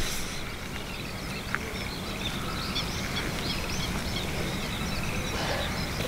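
Small birds chirping and singing steadily over a low, even background rumble.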